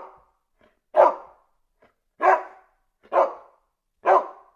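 A dog barking in single barks, about one a second, four full barks after the tail of one at the start.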